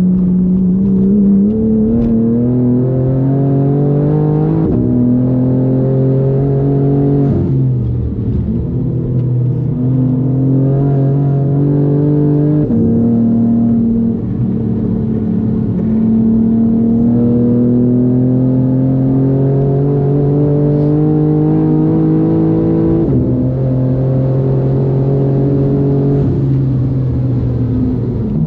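BMW M4 G82's tuned twin-turbo straight-six under hard throttle on track. Its note climbs steadily and drops back several times as it shifts up or lifts.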